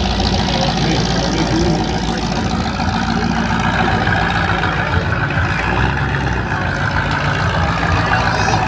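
A car engine idling steadily and loud, with an even low rumble that holds throughout.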